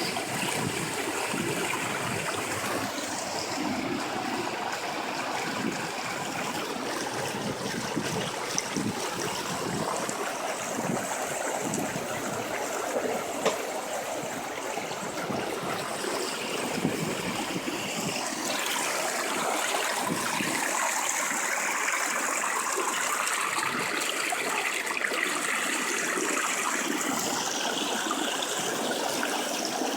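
Floodwater flowing steadily, a continuous rushing of water.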